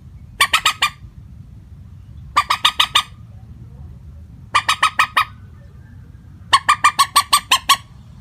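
Common moorhen calling: four bursts of rapid, clipped notes, about five to nine notes each, with the last burst the longest.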